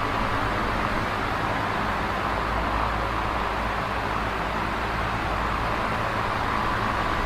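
Large box fan running steadily: an even rushing of air with a low hum underneath.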